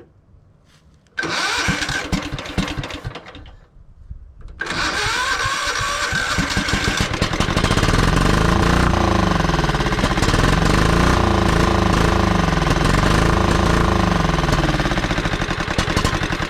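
John Deere LX255 lawn tractor's Kohler 15 hp engine cranked on starting fluid: a first burst of cranking about a second in, then a second crank about four seconds in that catches and runs loud and steady for about nine seconds. It starts to die away near the end, running only on start fluid with the fuel supply disconnected.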